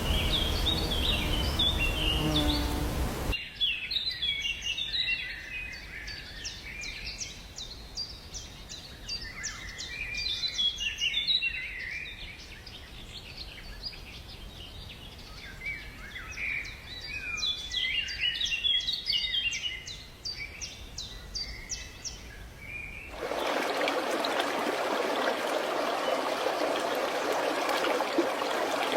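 Birds chirping and calling in quick runs of high notes. Near the end this gives way abruptly to the steady rush of a stream.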